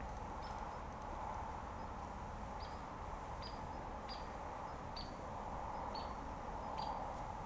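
A small bird's short high chirps: one early on, then a regular run of them a little under a second apart from about two and a half seconds in. Under them runs a steady background hum.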